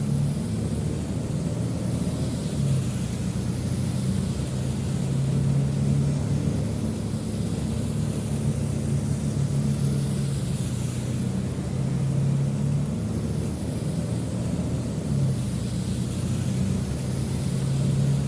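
Road traffic: a steady low engine hum that swells and fades every few seconds, under a constant hiss. About ten seconds in, the hiss sweeps down and back up as a vehicle passes.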